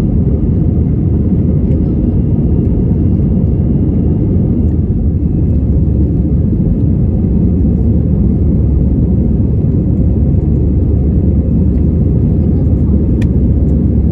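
Steady, loud, low drone of an easyJet Airbus A320's jet engines and airflow, heard from inside the passenger cabin as the aircraft climbs out after take-off. A single faint click is heard near the end.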